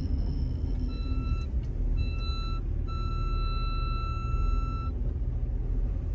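Car engine running with a steady low rumble while the car is pulled up a muddy slope by another vehicle. A vehicle's electronic warning beeper sounds two short beeps, then one long tone of about two seconds.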